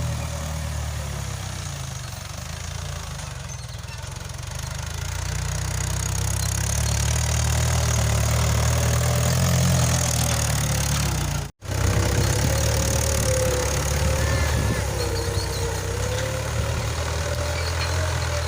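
Tractor diesel engine running steadily with a low, even engine note. It cuts out for an instant about two-thirds of the way through, then carries on.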